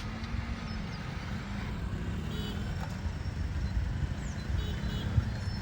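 Steady low rumble of road traffic, with two faint short high tones in the middle.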